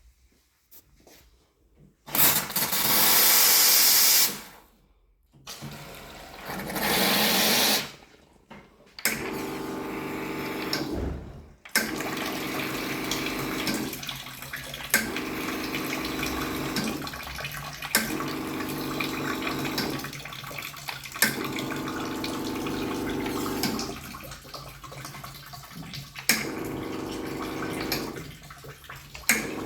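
Two-group automatic espresso machine: two loud bursts of hissing from a steam wand, then the pump running with water flowing through the machine, its hum coming and going every couple of seconds.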